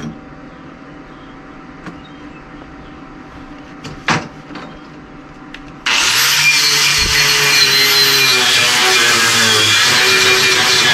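MIG welder arc struck about six seconds in: a sudden, loud, steady crackling hiss as a bead is run with fast wire speed. It is preceded by a single sharp knock about four seconds in.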